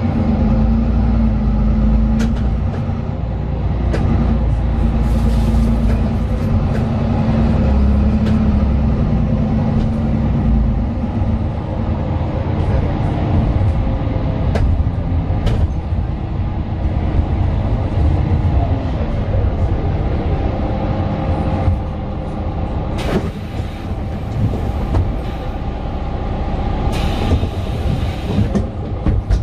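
Inside a Mercedes-Benz Citaro 2 city bus on the move: its OM 936 six-cylinder diesel engine and ZF Ecolife automatic gearbox pull hard for about the first ten seconds, then ease off, with the engine note drifting. Light rattles come from the cabin, and there are a couple of brief hisses near the end.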